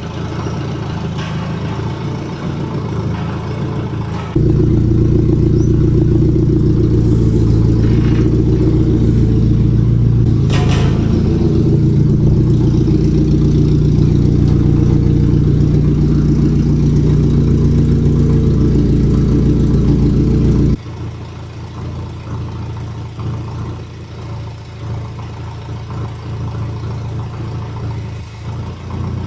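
Forklift engine running steadily, much louder through a long middle stretch that starts and stops abruptly, with a single knock about ten seconds in.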